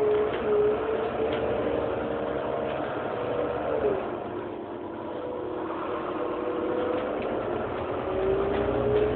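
Heuliez GX 327 city bus engine running, with a steady whine that falls in pitch about four seconds in and climbs again near the end as the revs change.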